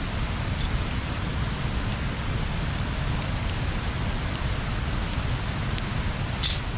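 Wood bonfire burning, crackling with scattered small pops over a steady low rumble, and one sharper pop near the end.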